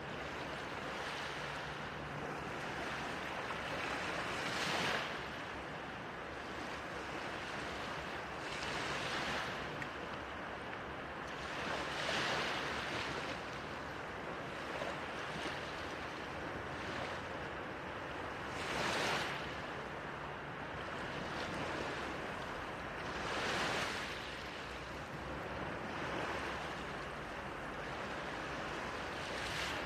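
Small ocean waves breaking gently on a shore, with a steady wash of surf between soft swells that come every few seconds.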